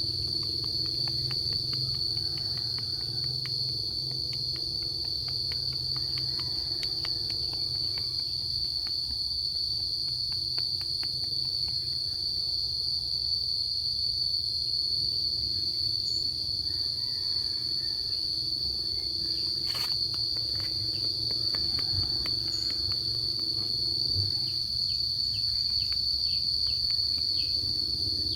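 Insects chirring in one steady, unbroken high-pitched drone, over a low hum and faint scattered ticks.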